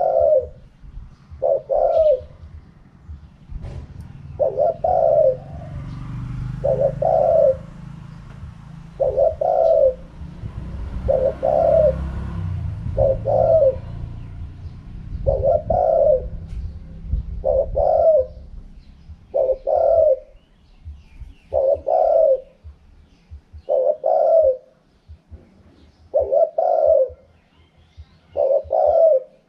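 Spotted dove cooing in the wild-style call pattern (kharom pa), its phrase repeated about every two seconds. A low rumble underlies the middle stretch.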